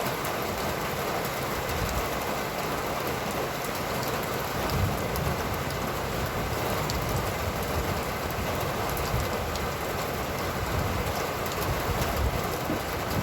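Steady rain falling, with many close drops ticking over an even hiss and a low, uneven rumble underneath.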